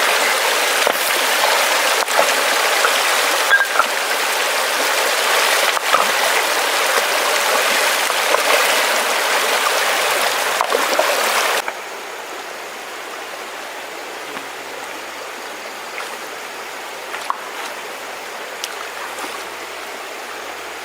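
Stream water flowing and rushing steadily, then dropping suddenly about halfway through to a quieter, gentler flow with a few small ticks.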